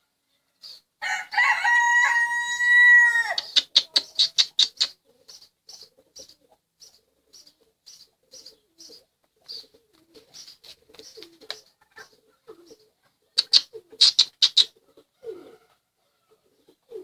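A rooster crows once, a long held call of about two and a half seconds that drops at the end. It is followed by a quick run of sharp sounds and then short high chirps repeating about twice a second, with another brief cluster of sharp sounds later on.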